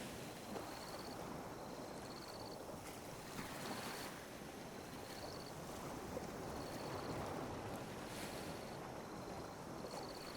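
Calm sea waves lapping and washing on a beach, a steady wash with gentle swells. A faint, high, short chirp repeats about once a second over it.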